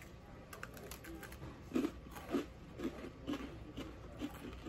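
People chewing Coca-Cola Oreo sandwich cookies with popping candy in them: a few faint crisp clicks at first, then a steady run of crunching chews about two a second from near the halfway point.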